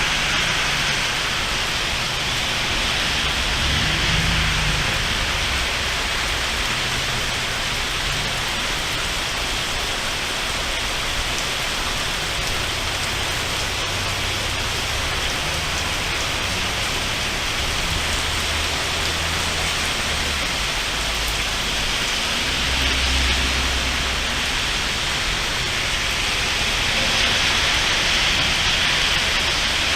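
Rain falling steadily in a thunderstorm, a constant hiss of drops. There are a couple of brief low rumbles, one about four seconds in and one a little past the twenty-second mark.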